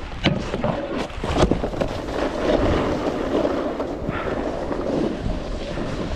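Wind buffeting the microphone over the steady scrape of a snowboard sliding on snow, with a few sharp knocks in the first second and a half.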